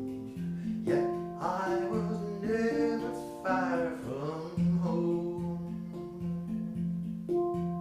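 Folk song played on acoustic guitar, with a voice gliding between notes in the first half.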